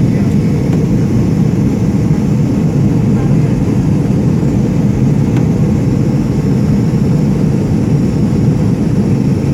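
Steady low rumble of engine and airflow noise inside an airliner cabin during the landing approach, with no change or impact.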